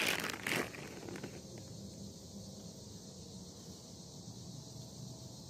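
A brief crinkling rustle of handling in the first moment, then faint, steady lakeside evening ambience with a constant high insect drone.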